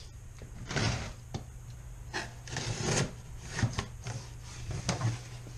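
A shipping package being opened by hand: irregular scraping and rubbing of packaging, with a few short knocks.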